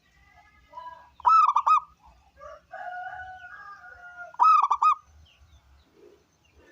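Zebra dove (perkutut) cooing: two loud bursts of about three rapid, looping notes, the second about three seconds after the first. Softer, drawn-out bird calls fill the gap between them.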